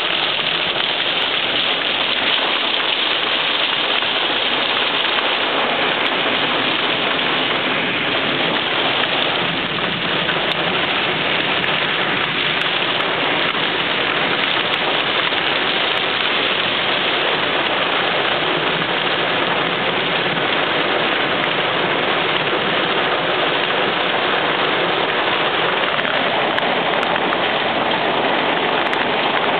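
Heavy rain beating on a car's roof and windows, heard from inside the car: a steady, even hiss.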